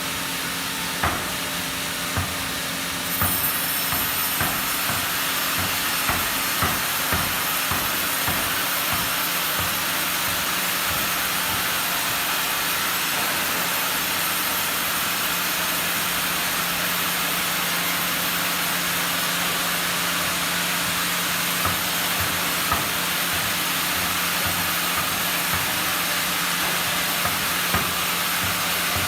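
Sawmill machinery running steadily, a constant hiss over a low hum, with scattered knocks, most of them in the first half.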